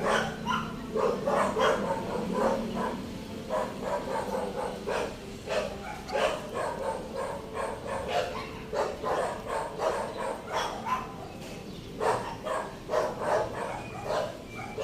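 An animal giving many short, pitched calls in quick runs, several a second, with a brief lull about three quarters of the way through.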